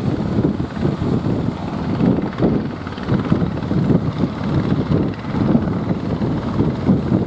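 Strong wind buffeting the microphone: a loud, gusting low rumble that swells and drops irregularly.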